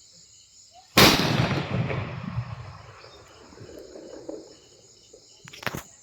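A small firecracker goes off with one sharp bang about a second in, its echo rolling away over about two seconds. A few fainter sharp cracks follow near the end, with crickets chirping steadily behind.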